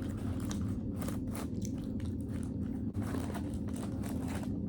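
A person biting and chewing food close to the microphone: a quick, irregular run of short crunching sounds over a steady low hum.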